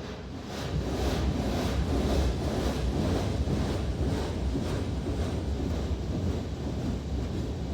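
High-pressure water jets of a NeXus Crossfire automatic car wash spraying against a pickup truck, heard from inside the cab as a dense rushing and drumming that pulses about twice a second. It gets louder about a second in.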